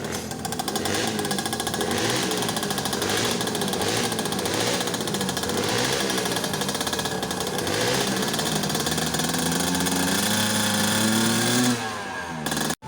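Motocross dirt bike engines running hard with a rapid, rattling pulse; about nine seconds in, an engine revs up, its pitch climbing for a few seconds before the sound cuts off sharply near the end.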